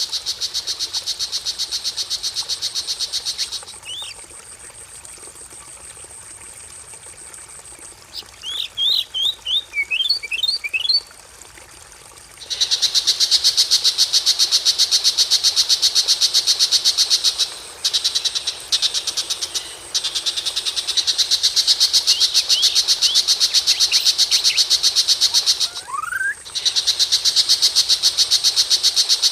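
Recorded songbird calls for bird training: long stretches of a fast, even, buzzing rattle, broken about eight seconds in by a quick run of sharp chirps and near the end by a single rising whistle.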